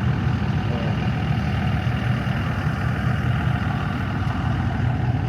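Truck engine idling steadily with a low rumble.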